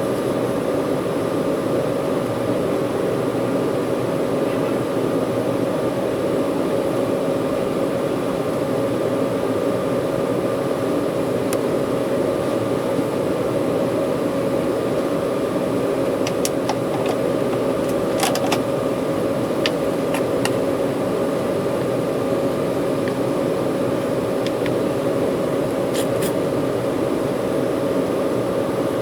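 Steady cabin noise of an Embraer 190 airliner in flight or on the ground with its turbofan engines running: an even roar with a steady whine, and a few faint clicks about halfway through and near the end.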